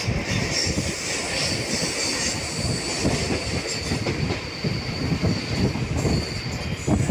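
Mumbai suburban local train running along, heard from on board: wheels clattering over the rail joints with a rumbling rattle, and a thin high wheel squeal.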